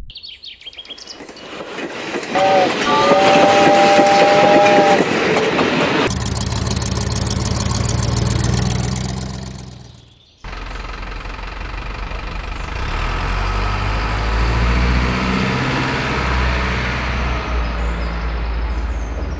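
A two-note train horn sounds for about two and a half seconds, a few seconds in, over a noisy clatter. After a sudden break about ten seconds in, the steady low rumble of a running train fills the rest.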